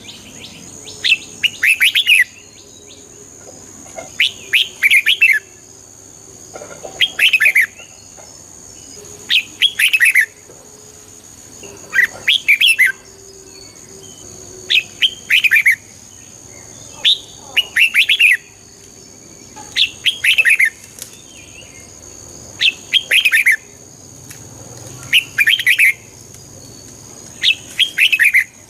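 Red-whiskered bulbul singing: short, bright warbled phrases of a few quick notes, repeated about every two to three seconds, about a dozen in all. A faint steady high tone runs underneath.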